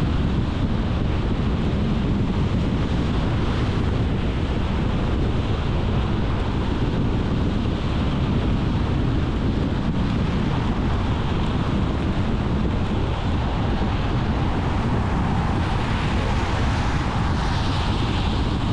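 Steady road and wind noise of a car driving along a road: a continuous low rumble with tyre hiss. The hiss swells briefly near the end.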